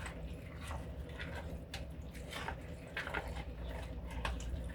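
A spoon stirring a thick mix of condensed cream of chicken soup, chicken chunks and frozen vegetables in a slow cooker: soft wet squelching with irregular light clicks of the spoon against the crock. A steady low hum runs underneath.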